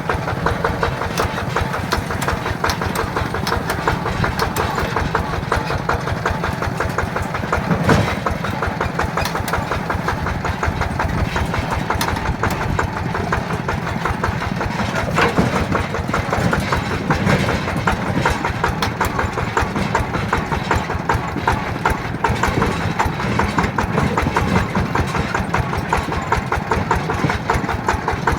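Yanmar TF120 DI single-cylinder direct-injection diesel engine running steadily with a rapid, even chugging beat.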